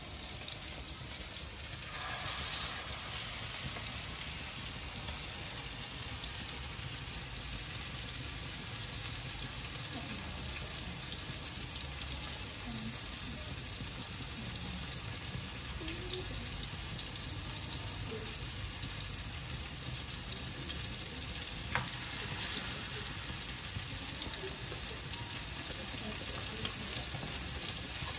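Food frying in hot oil: a steady sizzling hiss, with a single sharp click about three-quarters of the way through.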